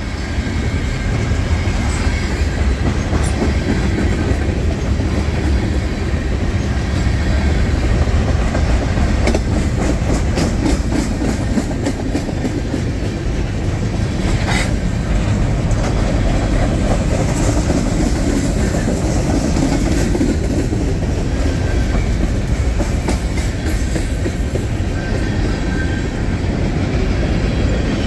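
Freight train cars rolling past close by: a steady rumble of wheels on rail, with repeated clicks as the wheels cross rail joints.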